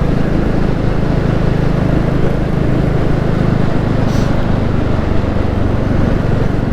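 Royal Enfield Classic 350's single-cylinder engine running steadily while the motorcycle is ridden along, under a steady rush of wind and road noise.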